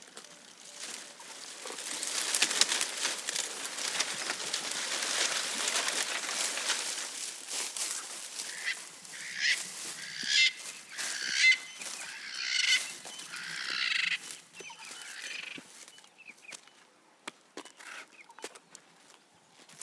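About six harsh calls from a bird, in quick succession from about eight seconds in. Before them comes a stretch of rustling with crackles and clicks, and scattered clicks follow.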